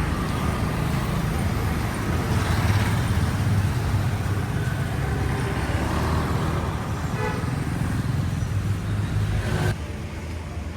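Motorcycle ride through city traffic: steady engine and road noise, with a brief horn toot about seven seconds in. The noise drops suddenly near the end.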